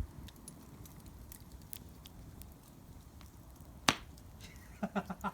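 Wood fire crackling softly with scattered small pops, and one sharper snap about four seconds in. Near the end come a few short vocal sounds.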